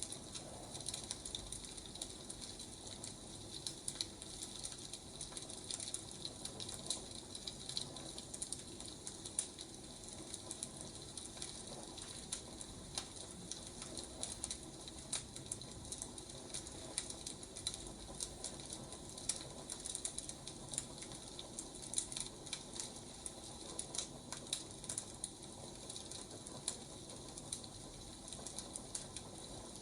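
Wood fire crackling, a steady stream of small irregular pops and snaps.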